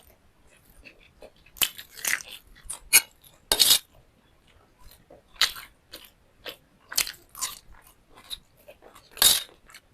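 Close-up eating sounds: crunchy food being bitten and chewed in irregular crunches, a few louder bites among softer chewing.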